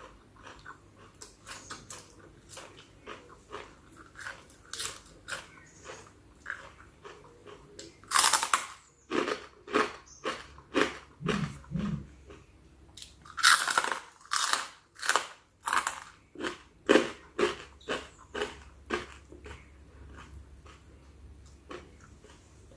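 Chewing and crunching on spicy chicken-feet salad: repeated bites at roughly two a second, with two louder, longer crunches about eight and thirteen seconds in.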